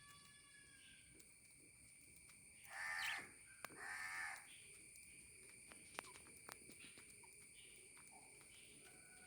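Two harsh calls from a bird, each about half a second long and about a second apart, a few seconds in, over faint background hiss.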